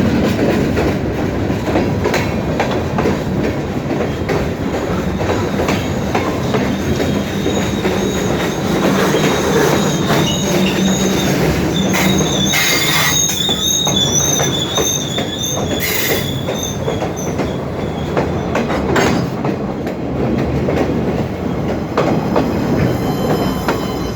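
Great Lakes Central train rolling past, a steady heavy rumble of wheels on rail with clickety-clack. For several seconds in the middle, wheels squeal with a high, wavering tone.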